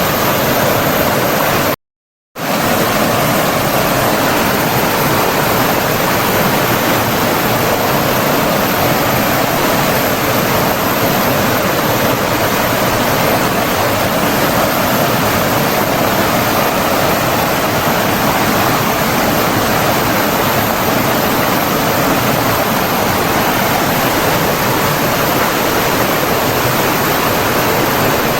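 Steady rush of flowing water, an even continuous noise, broken by a sudden half-second dropout to silence about two seconds in.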